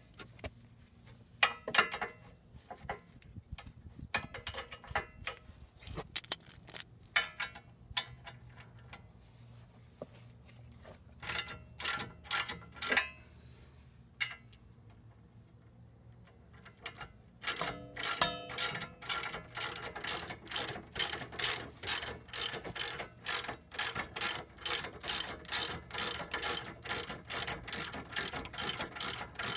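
Hand ratchet wrench clicking as a bolt is worked: scattered short strokes at first, then, about two-thirds of the way in, a fast, even run of clicks, about three a second.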